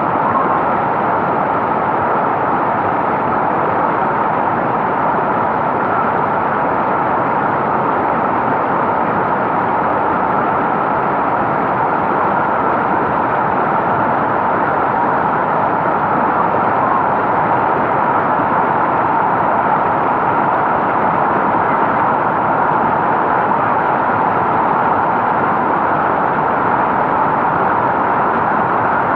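Mountain stream rushing over rocks: a loud, steady roar of water that does not change.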